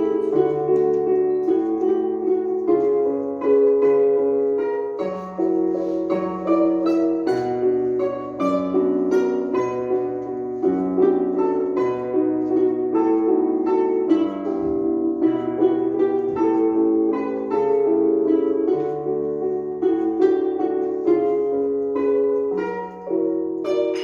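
Instrumental music from a plucked or struck instrument, with many quick notes that ring and fade over a bass line changing pitch about once a second.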